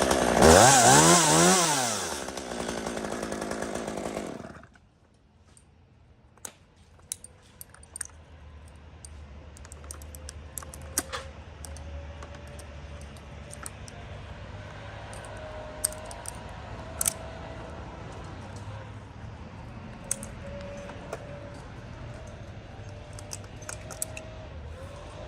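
Chainsaw revving hard, its pitch rising and falling, then cutting off about four seconds in. After that a faint, steady low running sound continues, with scattered sharp clicks and snaps.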